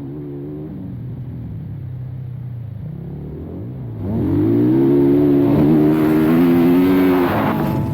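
Dirt bike engine running at low revs, then revved up about four seconds in and held as the bike accelerates, easing off near the end.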